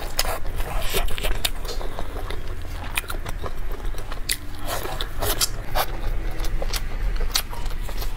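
Close-miked chewing of a soft steamed bun: many short, irregular wet mouth clicks and lip smacks, over a steady low hum.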